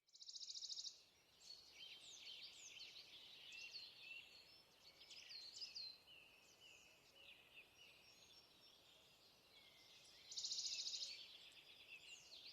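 Several small birds singing quietly, with many short chirps and whistles that sweep up and down in pitch. A fast, evenly pulsed trill sounds at the start and again about ten seconds in.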